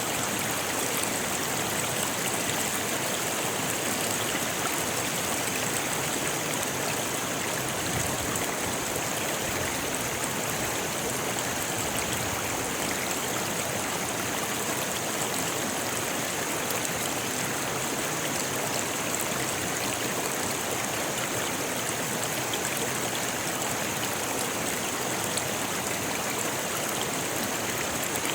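A rocky river rushing and splashing over stones in a steady, unbroken flow.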